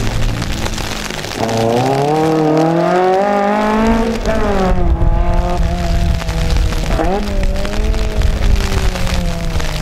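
Small rear-engined car's engine revving hard, its pitch climbing for a couple of seconds and then dropping sharply at a gear change about four seconds in. It then runs on more steadily, with a brief drop and blip of revs around seven seconds, over a heavy low rumble.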